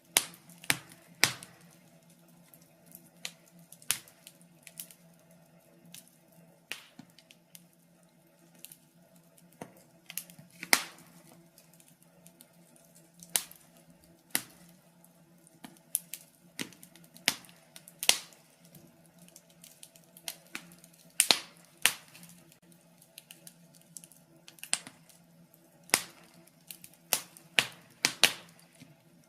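Wood fire in a fireplace crackling: irregular sharp pops and snaps, some close together, over a faint steady low hum.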